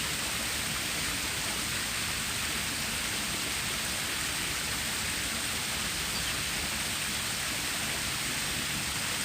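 Water of a stream flowing steadily, an even rushing hiss with no changes.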